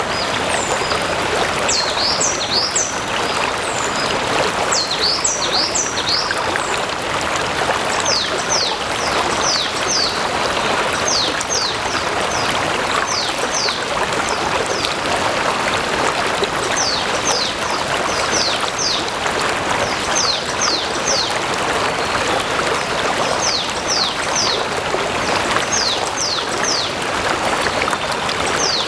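A stream of water flowing steadily, with a bird repeatedly calling over it in quick, high, falling chirps in groups of three or four every couple of seconds.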